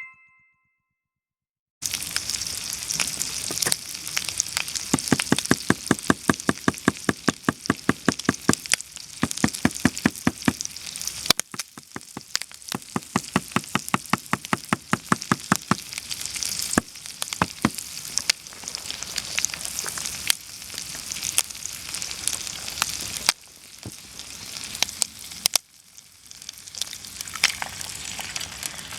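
Bacon sizzling in a skillet, a steady hiss, with two runs of quick rhythmic strokes, several a second, which are the loudest sounds.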